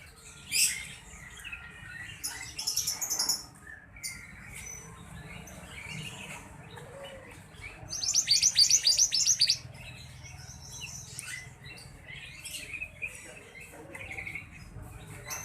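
Sirtu birds calling in short, high chirps, with a fast, loud trill of rapid chirps lasting about a second and a half, a little past the middle.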